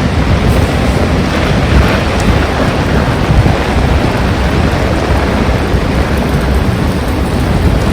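Heavy rain and strong wind in a steady loud rush, the wind buffeting the microphone with a deep rumble.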